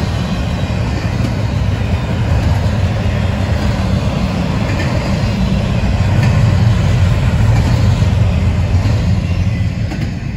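Double-stack intermodal well cars of a freight train rolling past, a steady low rumble of steel wheels on rail that eases off near the end as the last car clears.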